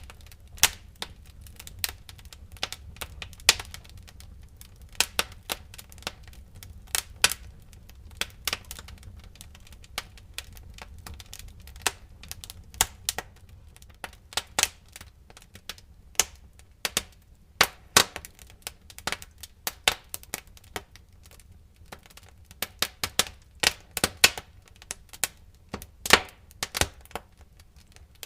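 Wood fire in a fireplace crackling: irregular sharp pops and snaps, sometimes several in quick succession, over a low steady rumble.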